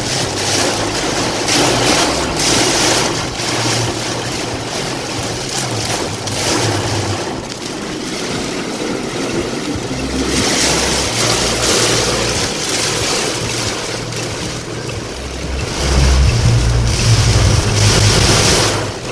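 Heavy rain and gusting wind of a sudden downburst, surging and easing in waves, loudest in the last few seconds.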